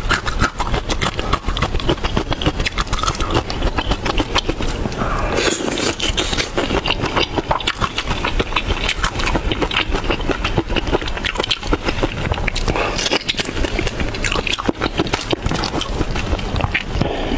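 Shrimp being bitten and chewed, picked up close on a clip-on microphone: a dense, irregular run of small crackling clicks and mouth sounds.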